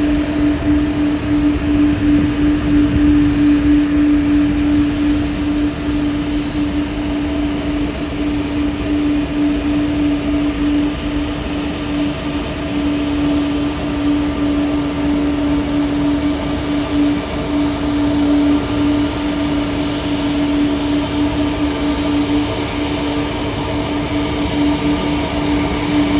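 Airbus A330-300 cargo jet's engines running steadily after touchdown: a constant hum at one pitch over an even rushing noise.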